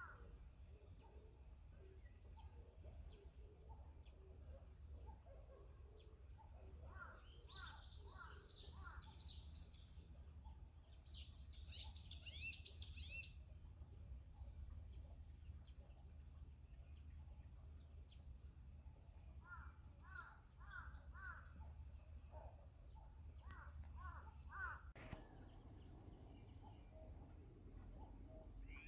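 Faint birdsong from several birds: a thin high trill that comes and goes, two quick flurries of chirps, and short calls in runs of about four, over a low steady hum.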